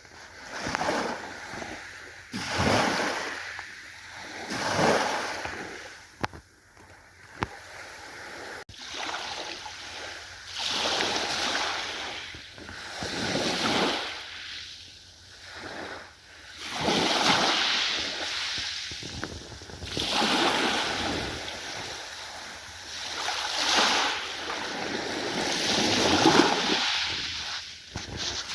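Ocean waves washing ashore, the rush of surf swelling and falling away every two to three seconds.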